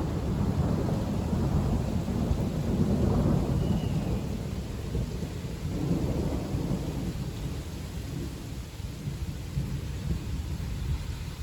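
Long rolling thunder rumbling over steady rain, loudest in the first few seconds with another swell about six seconds in, then dying away.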